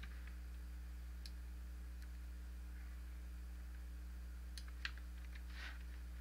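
Steady low electrical hum with a few scattered computer clicks, about four or five in all, from mouse or keyboard use at the desk.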